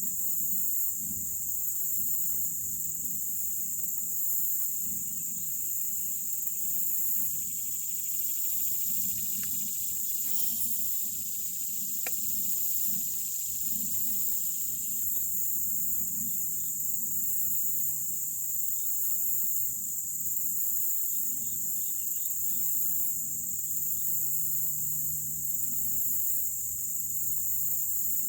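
Insects, crickets or similar, trilling in a steady, high-pitched chorus with a faint low hum beneath.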